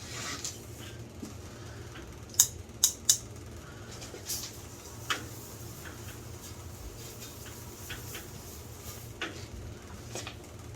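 Loose bricks clinking and knocking against each other as they are picked up by hand: three sharp clinks in quick succession about two and a half seconds in, then scattered lighter knocks, over a steady low hum.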